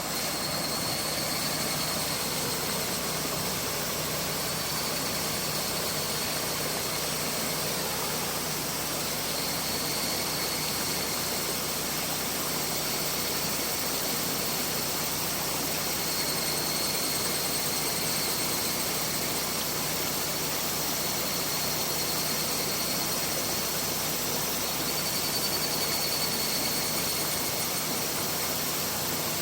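Mountain river rushing steadily over its bed, a constant even wash of water noise.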